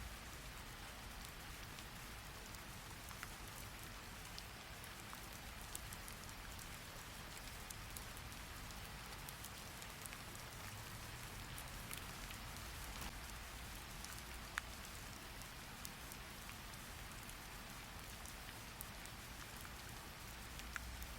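Steady rain falling as an even hiss, with a few scattered sharp ticks over it.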